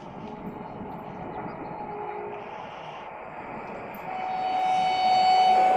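Renfe Class 130 Alvia passenger train approaching, its rolling noise growing louder from about four seconds in, with a steady high whine.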